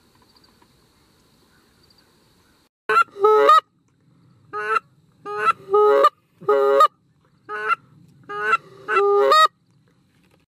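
Goose honking: about ten loud, sharp honks in quick groups of two or three, starting about three seconds in, some breaking from a high note to a lower one.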